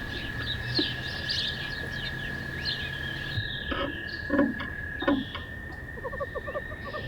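Small birds chirping with rapid short calls over a steady faint high tone, with a few soft knocks in the middle. Plucked music fades in near the end.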